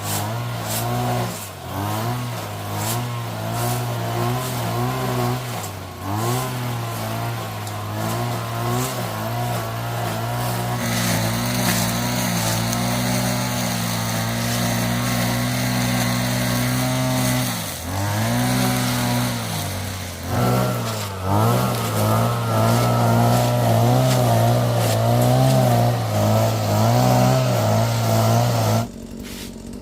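A motor running steadily, its pitch dipping briefly and recovering several times as if loaded, then cutting off abruptly near the end.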